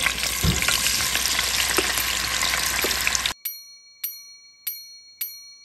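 Tofu cubes frying in hot oil, a steady sizzle with crackles. After about three seconds it cuts off, and four bell-like dings follow about 0.6 s apart, each ringing briefly.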